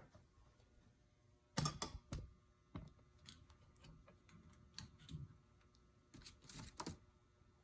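Scattered light clicks and taps of a soldering iron working along the solder seams of a copper-foiled stained-glass window, as melted solder is pushed off the seams onto the table.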